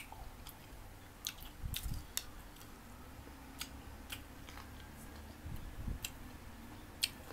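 Crisp green mango being chewed close to the microphone: scattered sharp crunches and clicks, with a couple of low thuds.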